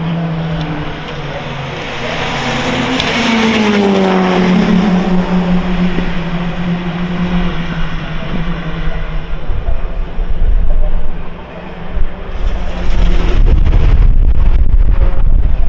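Race car engines on track, one note dropping in pitch as a car goes past. Near the end a loud low rumble takes over.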